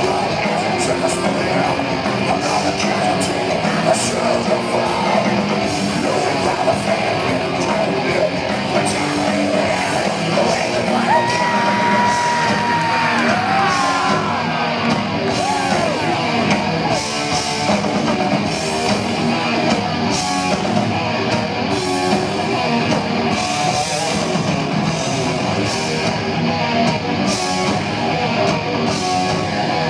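Live heavy metal band playing loud: distorted electric guitars and drums, with a held, shouted vocal or bent guitar note rising over the band about eleven seconds in.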